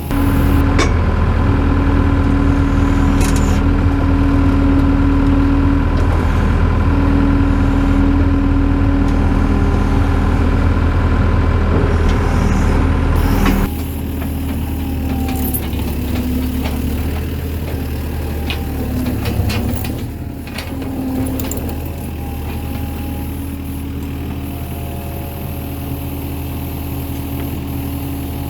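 Skid steer engine running at raised throttle, then dropping suddenly to a lower, quieter speed about halfway through and running on steadily.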